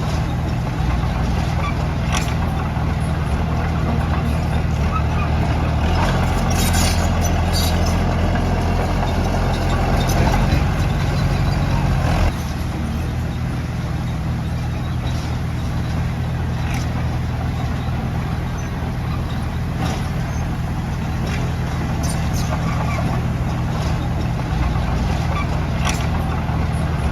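Heavy earthmoving machinery's diesel engine running under load with scattered metallic clanks. The engine works harder for several seconds, then drops back suddenly about halfway through.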